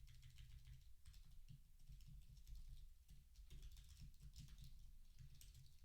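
Faint computer keyboard typing, an irregular run of quick keystrokes.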